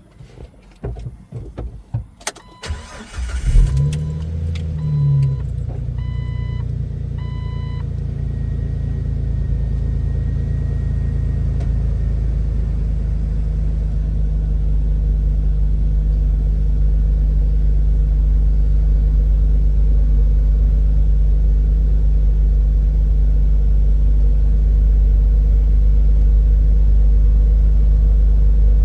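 2006 Jeep Wrangler's 4.0-litre straight-six being cold-started, heard from inside the cabin. After a few knocks and about a second of cranking, the engine catches with a brief flare in revs and settles into a steady idle. A dashboard warning chime sounds about five times just after it starts.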